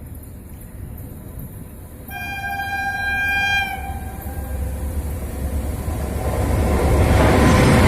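Train horn sounding one long blast of about a second and a half over the low rumble of a train. The rumble grows louder toward the end.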